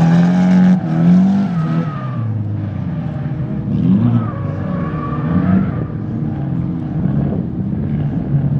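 Drift car's engine revving hard, its pitch rising and falling again and again as the throttle is worked. It is loud and close for about the first two seconds, then sounds farther off while it keeps revving up and down.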